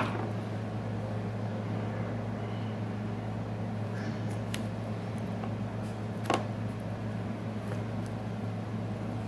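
A steady low electrical hum, like a fan or equipment running, with two sharp clicks: one at the very start and one about six seconds in.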